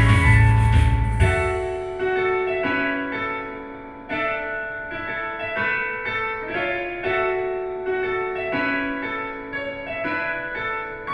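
Instrumental outro of a pop song's karaoke backing track: the full band with bass and drums stops about a second in, leaving piano chords played one after another.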